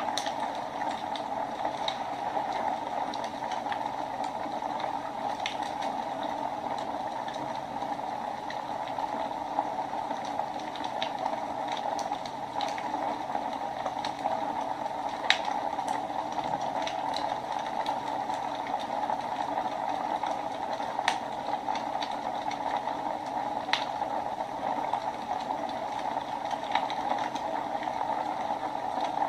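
Wood fire burning in a fireplace: a steady hiss with scattered sharp crackles and pops, one every second or two.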